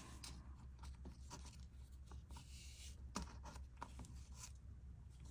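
Faint rustling of yarn and light scattered clicks of a crochet hook as stitches are worked, over a low steady hum.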